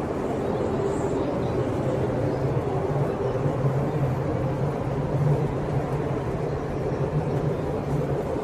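Large roll-on/roll-off ferry's engines running with a steady low drone and hum.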